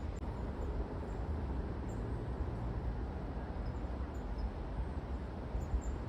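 Wind rumbling on the microphone, a steady low noise, with a few faint, short high chirps from a flock of tits.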